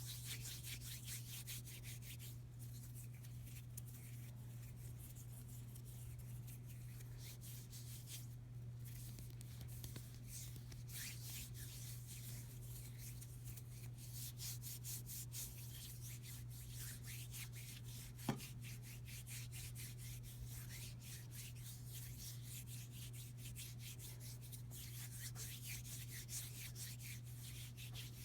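Bare hands rubbing together close to the microphone: a continuous dry, crackly swishing of skin on skin. A steady low hum runs underneath, and a single sharp click comes about two-thirds of the way through.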